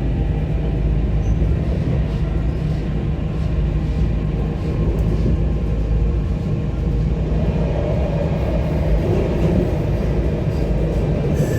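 Tram running on rails, a steady low rumble throughout.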